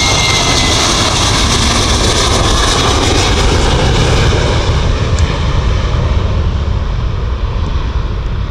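Jet engines of a Boeing 737-800 (CFM56-7B turbofans) passing close by: a loud, steady rush of jet noise, with a high engine whine that dies away in the first moment. The noise eases a little near the end.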